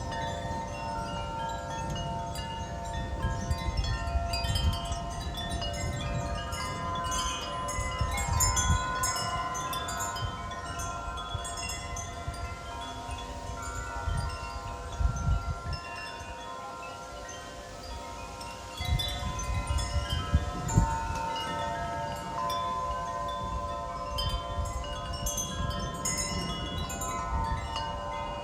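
Metal wind chimes ringing continuously in gusty storm wind, many tones overlapping, with wind rumbling on the microphone; the wind drops briefly past the middle and comes back.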